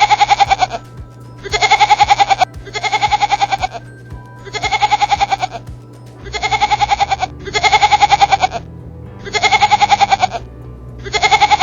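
Goat bleating over and over: about nine quavering bleats, each under a second long, with short gaps between them.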